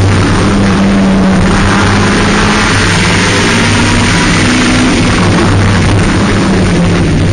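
Race car engine running hard at high revs, heard from inside the roll-caged cockpit, its pitch shifting up and down a little, over a steady rush of wind and tyre noise.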